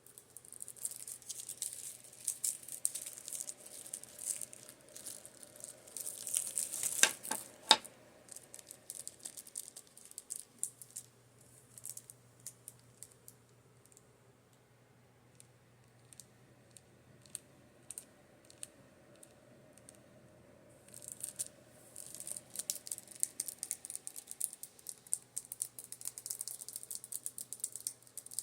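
Rapid fingertip tapping on makeup brushes: fast, crisp taps, two louder knocks about seven seconds in, then only scattered taps for a while before fast tapping resumes about 21 seconds in. A faint steady fan hum runs underneath.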